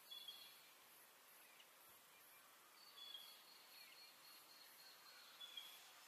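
Faint natural background: a few short, high bird chirps spaced a few seconds apart, with a few faint falling whistles, over a faint high pulsing hiss.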